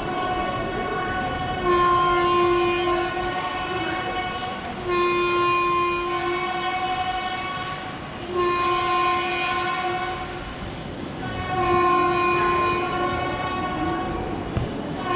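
A horn note, likely a train horn on a loop, held about a second and a half and repeating at even intervals about every three seconds, some five times, over a steady background hum.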